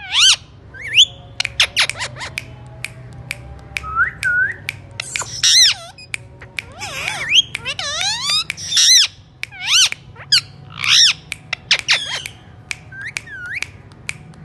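Alexandrine parakeet squawking over and over: harsh, loud screeches that swoop up and down in pitch, with short sharp clicks in between.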